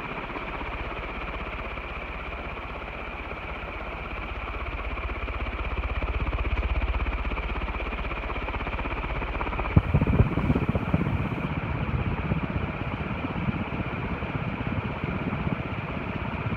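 A 56-inch industrial ceiling fan running on high speed, with a steady high hum over the rush of air. Its strong downdraft buffets the microphone, with a low rumble that swells and then gusty thumps from about ten seconds in.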